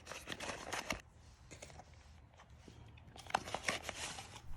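Packaging rustling and crinkling as accessories are handled and taken out of the box. It comes in two spells, about the first second and again from about three seconds in, with a quiet gap between.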